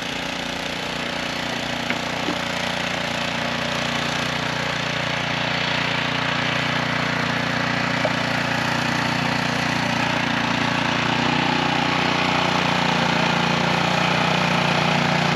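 Engine of snow-clearing machinery running steadily, with a constant low hum, growing gradually louder over the last several seconds.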